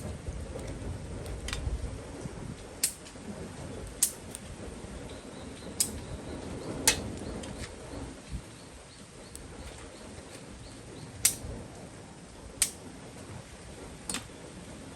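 Wood campfire crackling, with sharp pops every second or two over a low steady rush.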